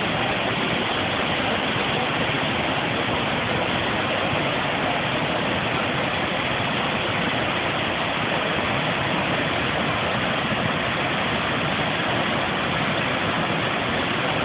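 Steady rushing noise of Niagara Falls, a continuous even roar of falling water that never changes in level.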